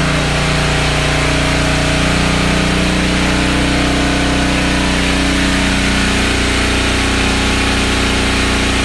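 An engine running steadily at idle, a constant low hum with a slight change in tone about six seconds in.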